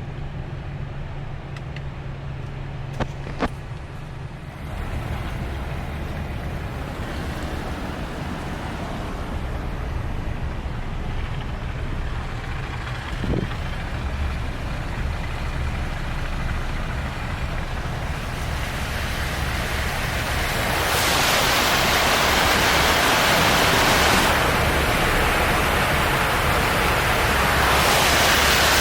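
Car driving on the highway, heard from inside the cabin: a steady low road rumble with a couple of sharp ticks. From about eighteen seconds in, a hiss builds into a loud, even rush of water spraying and splashing against the car as it drives into floodwater.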